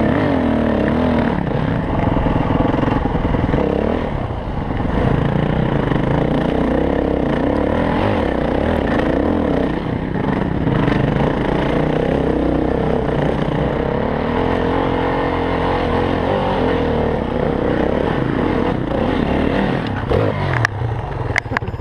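Dirt bike engine running and revving up and down as it is ridden along a trail, with clattering and scraping underneath. A few sharp knocks sound near the end.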